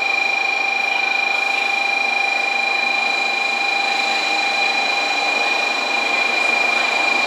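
N700 series Shinkansen train rolling slowly into a station platform: a steady, even rolling noise, with constant high-pitched whining tones over it.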